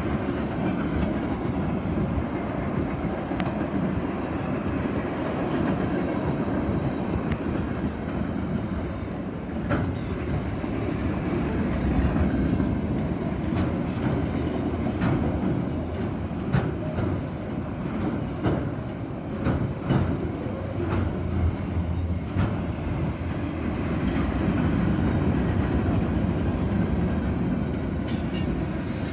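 Freight train rolling past, its cars rumbling steadily, with wheels clicking over rail joints through the middle stretch and faint wheel squeal.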